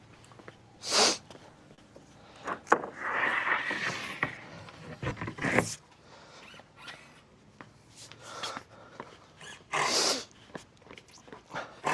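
Intermittent short rushes of noise, three of them stronger than the rest, and a hazy scraping stretch, with a few light knocks in between.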